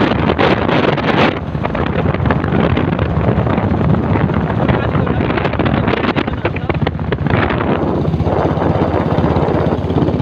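Motorcycle engine droning steadily under riding, with wind buffeting the microphone.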